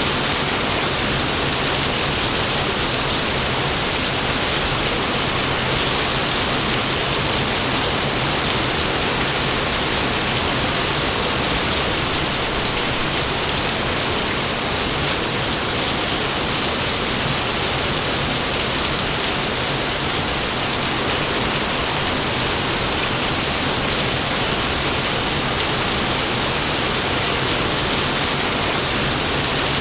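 Heavy rain pouring steadily, a dense, even hiss that does not let up. No thunderclap in this stretch.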